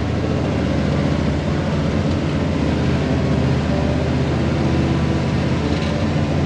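Tow truck's engine running steadily as it drives along.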